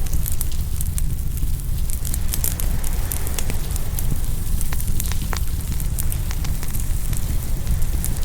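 Open wood fire crackling, with frequent sharp pops, over a steady low rush that is the sound of waves coming in on the shore.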